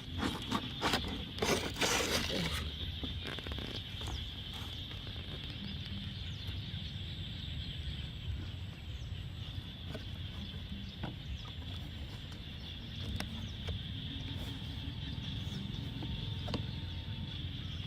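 Outdoor ambience with a steady high-pitched insect drone. A cluster of sharp knocks and rustles comes in the first two or three seconds, with a few single clicks later.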